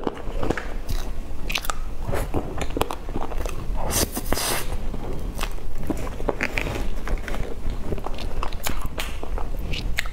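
Close-miked mouth sounds of a person chewing a mouthful of cream-frosted sponge cake: many small clicks, with a brief louder noisy stretch a little after four seconds in.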